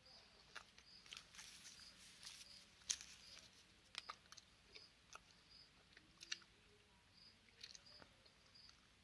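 Faint close-up chewing, wet clicks and crackles of a mouthful being worked. Under it a faint, short high chirp repeats every half second or so.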